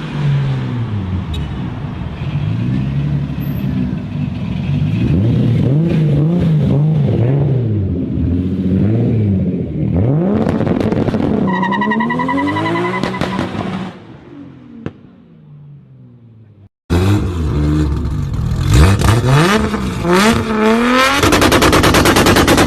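Tuned Toyota 2JZ straight-six engines revving hard and accelerating, the pitch climbing and dropping through gear changes, with a high whine about 12 s in. After a sudden cut about 17 s in, a second engine climbs in pitch and ends in rapid crackling pops.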